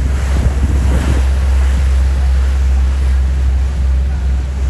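Wind buffeting the microphone on a moving tour boat, over a steady low rumble and the rush of water along the hull.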